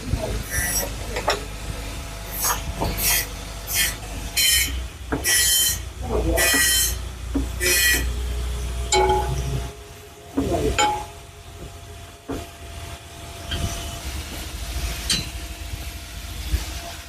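Metalworking: about a dozen short, harsh metal-on-metal scraping strokes with a ringing high tone, over a steady low machine hum. After about 8 seconds the strokes turn fewer and quieter, and a faint steady whine sets in.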